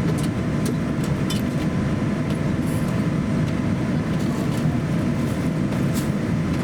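Steady cabin noise inside a Boeing 787-9 airliner on the ground before takeoff, an even low rumble with a few faint clicks.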